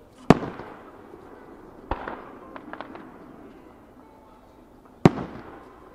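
Aerial firework shells bursting overhead: a loud sharp bang about a third of a second in, a second bang near two seconds followed by a few small crackling pops, and another loud bang near the end. Each bang has a ringing tail.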